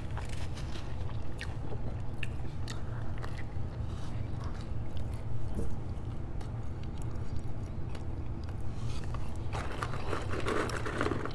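Close-miked chewing of a mouthful of fried food, with small wet clicks and smacks of the mouth over a steady low hum. The sounds get busier and louder near the end.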